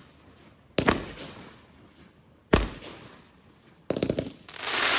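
Consumer aerial fireworks going off outdoors. Two single sharp bangs come about a second in and halfway through, then near the end a quick string of pops breaks into a loud, dense crackling.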